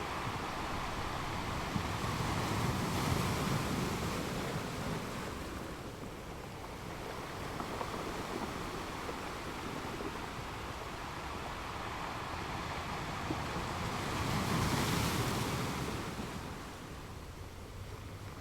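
Ocean waves breaking on a beach, a steady wash of surf that swells about three seconds in and again near the end before easing back.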